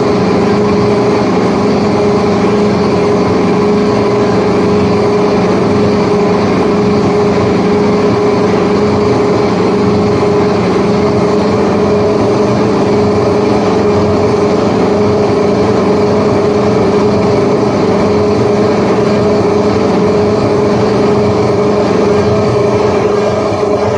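Handheld power tool smoothing a yacht's rudder, running at a steady speed with a constant whine.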